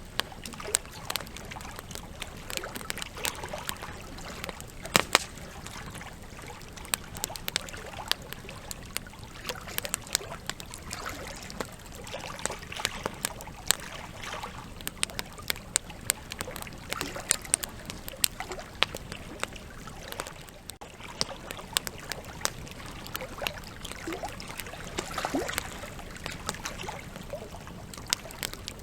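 Campfire burning, with logs crackling: a steady low hiss of flames under frequent irregular pops and snaps, a few of them sharper and louder.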